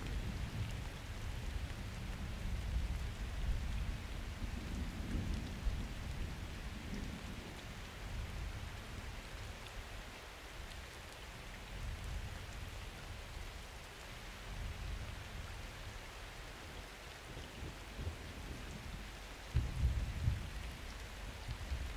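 Summer thunderstorm: steady rain with thunder rumbling low underneath in slow swells, a louder roll starting about three-quarters of the way through.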